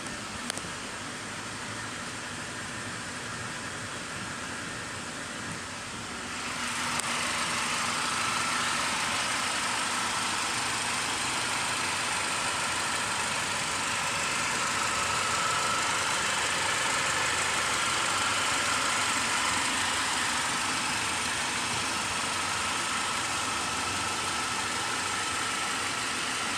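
Mercedes-Benz C-Class engine running at idle, steady throughout; about six seconds in it grows louder and hissier, and a faint steady whine sits over the running from then on.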